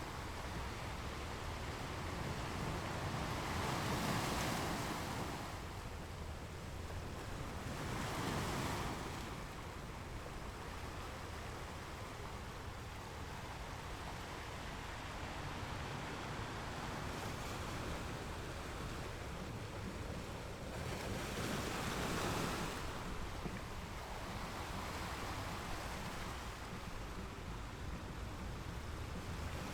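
Ocean waves breaking on a beach, swelling and washing in about three times over a steady surf wash, with a low rumble underneath.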